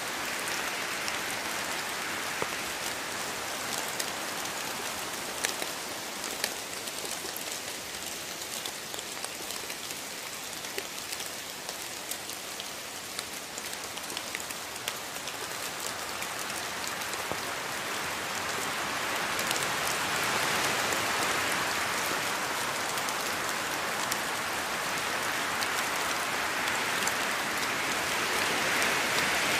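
Steady rainforest rain pattering on foliage, with individual drops clicking, growing a little heavier in the second half.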